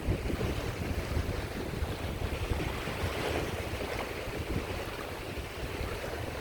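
Sea waves washing onto a shore: a steady surf that swells briefly a little past three seconds in, with wind rumbling on the microphone.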